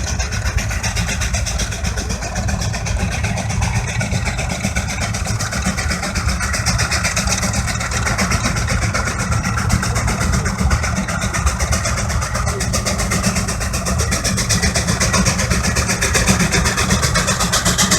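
Case steam traction engine running steadily under load as it pulls a gang of plows: a continuous heavy, low rumble with a fast, even pulse.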